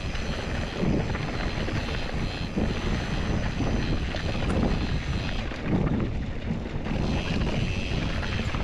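Wind buffeting the microphone over the rumble of mountain bike tyres rolling fast over dirt and rock, with uneven low surges throughout.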